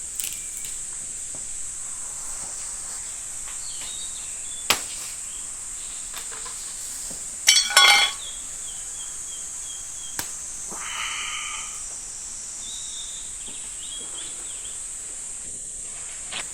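Steady high-pitched drone of jungle crickets, with a few sharp snaps and one loud crackling break about halfway through as a branch is snapped for the shelter.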